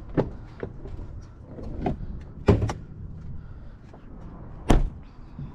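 Clicks and knocks from a 2019 Chevrolet Silverado pickup's door and hood latch as the hood is released and popped open. There are several separate knocks, and the sharpest and loudest comes near the end.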